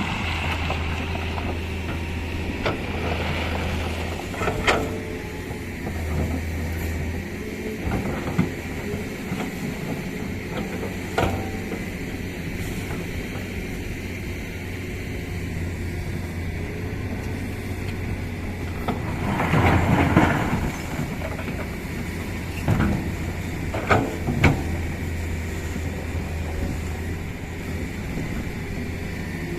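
Tata Hitachi excavator's diesel engine running steadily, with scattered clanks and knocks and a louder burst of noise about two-thirds of the way through.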